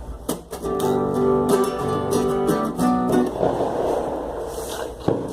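Acoustic guitar being strummed, a few chords ringing out.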